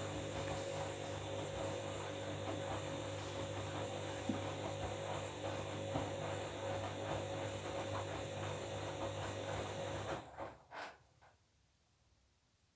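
Washing machine running its wash, the drum motor humming steadily while the bed linen tumbles and sloshes in the drum. About ten seconds in the motor stops suddenly, followed by a couple of brief clunks as the drum comes to rest.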